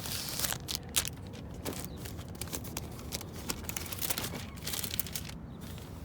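Plastic tablecloth and its packaging crinkling and rustling as they are handled and pulled apart, a run of short, irregular crackles.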